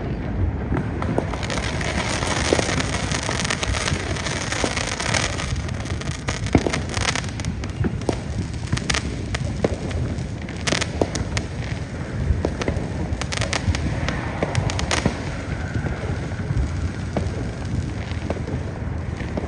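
Fireworks going off in great numbers: a steady low rumble and crackle of bursts, with sharp cracks coming thick and fast from about a third of the way in until about three-quarters through.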